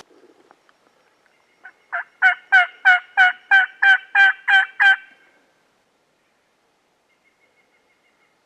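Wild-turkey yelping: a loud run of about ten evenly spaced yelps, about three a second, lasting around three seconds.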